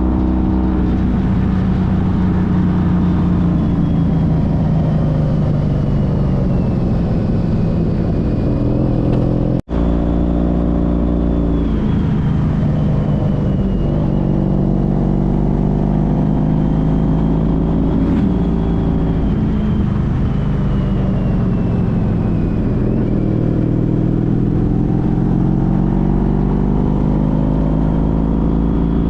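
Honda CTX1300 motorcycle's V4 engine under way, its pitch rising and falling several times with the throttle, with a momentary break in the sound about ten seconds in.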